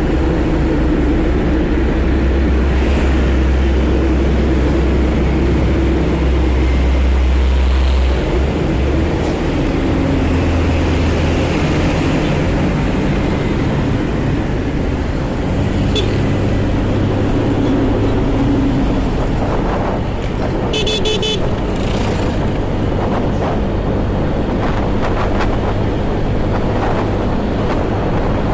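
Road traffic heard while riding a motorcycle: engines running, their pitch stepping up and down as speeds change, with a brief vehicle horn toot about two-thirds of the way through.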